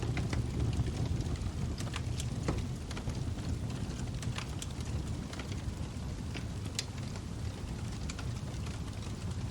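Log fire burning: a steady low rumble of flames with frequent, irregular sharp crackles and pops from the burning wood.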